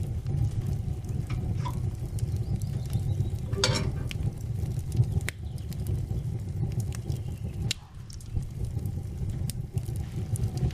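Wood fire crackling in a wood stove: scattered sharp pops and snaps over a steady low rumble.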